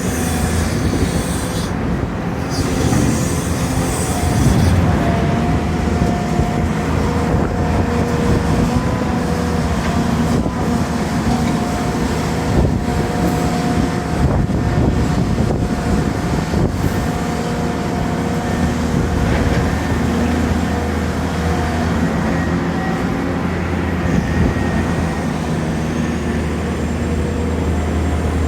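Excavators handling logs: their diesel engines run steadily under load, with a few steady tones over the low engine hum.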